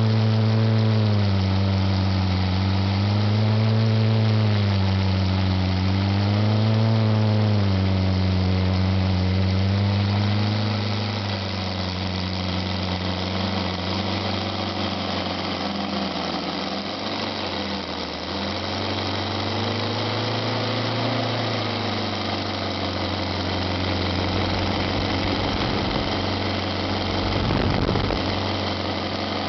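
Radial engine running, its pitch swinging up and down about every three seconds for the first ten seconds, then settling steadier and lower. A deep low rumble comes up near the end.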